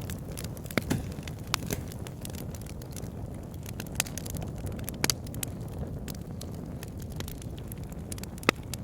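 Wood fire burning in a log burner: a steady low rumble of flames with frequent sharp crackles and pops from the logs, a few louder pops about a second in, around five seconds and near the end.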